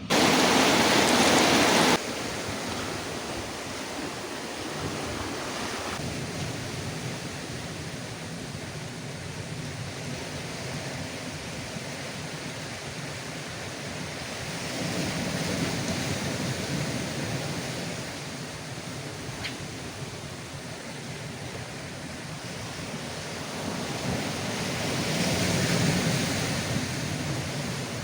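Ocean surf washing against a rocky shore in rough seas, with wind on the microphone. The surf swells louder twice, around the middle and near the end. The first two seconds hold a much louder burst of rushing noise that starts and stops abruptly.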